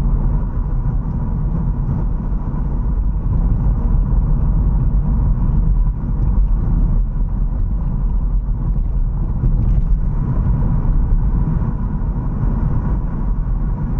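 A car driving steadily along a road: a continuous low rumble of engine and road noise, with a faint steady whine, that holds even without changes.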